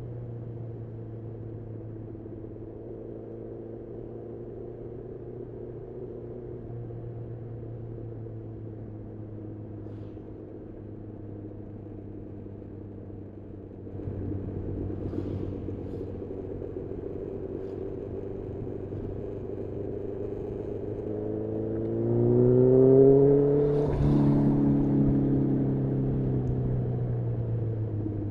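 2018 Honda CB1000R's inline-four engine through a full Black Widow aftermarket exhaust, heard from the rider's seat: running steadily with the revs slowly easing off. Near the end it revs up hard, is cut briefly by an upshift, and then the revs fall away slowly on a closed throttle.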